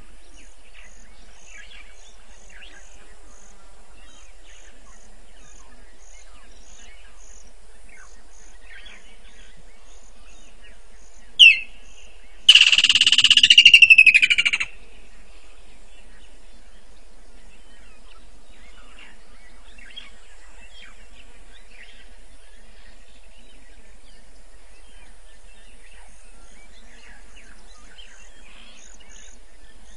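Dusk bush ambience of scattered soft chirps and a faint, regular high ticking. About eleven seconds in, one short sharp note is followed by a loud, harsh bird call close to the microphone that lasts about two seconds and falls slightly in pitch.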